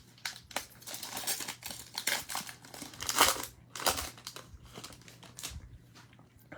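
Plastic trading-card pack wrapper being torn open and crinkled by hand, an irregular crackling that thins out near the end.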